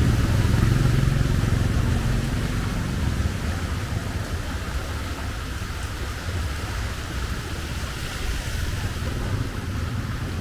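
Rainy street ambience: a motor vehicle's low engine rumble fades away over the first few seconds, over a steady hiss of rain.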